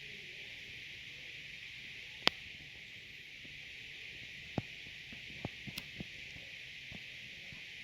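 Steady high hiss with a handful of short, sharp clicks: a loud one a little over two seconds in, then a scattered cluster from about four and a half to seven seconds in.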